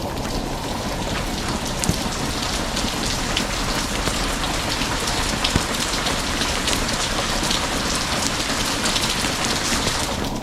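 Steady heavy rain: a dense, even hiss with many distinct drop ticks.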